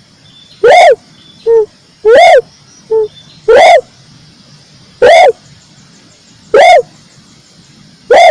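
Red turtle dove calling: a loud, short coo that rises and falls, repeated about every second and a half, with a shorter, softer note after two of them.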